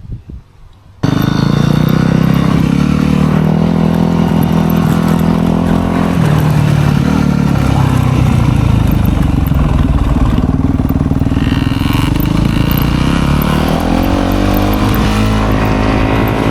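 Dirt bike engine running close to the microphone, its pitch rising and falling as the throttle is worked while riding. It cuts in suddenly about a second in.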